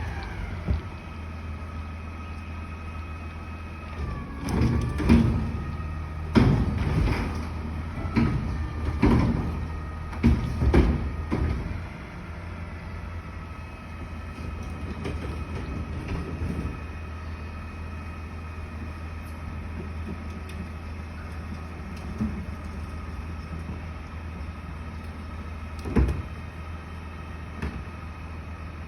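Garbage truck running with a steady low drone and a high whine while it lifts and empties a trash can, with a series of loud bangs and clatters from about four to twelve seconds in. One more sharp bang comes near the end.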